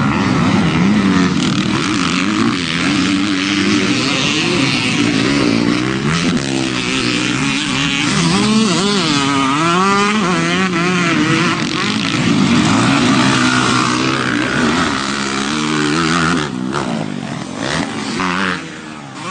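Several motocross dirt bikes racing around the track, engines revving up and down, with several engine pitches overlapping. The engines fade somewhat near the end.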